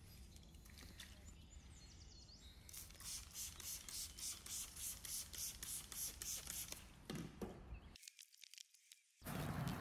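Quiet, rhythmic rubbing or scrubbing, about three strokes a second, lasting several seconds. Near the end a louder, steady rushing noise cuts in suddenly.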